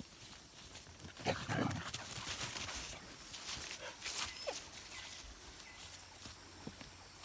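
An animal calling: a short call with a falling pitch about a second in, and a briefer one around four and a half seconds in, over faint scattered clicks.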